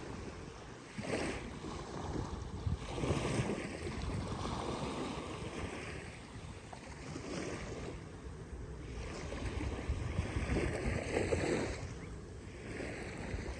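Small Gulf waves breaking and washing up the beach in repeated surges every couple of seconds, with wind rumbling on the microphone.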